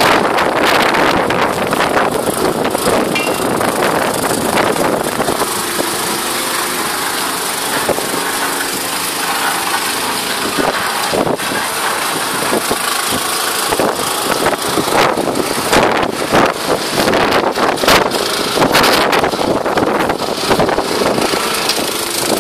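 Strong wind buffeting the microphone in gusts, with a faint steady hum from a machine through the middle.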